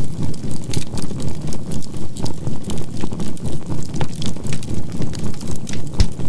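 Campfire crackling, with scattered small pops and one sharper pop near the end, over a low synthetic tone that pulses evenly about three times a second: a binaural-beat track mixed with fire sounds.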